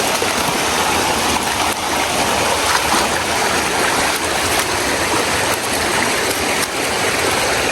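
Rushing water of a waterfall and stream, a steady, loud hiss.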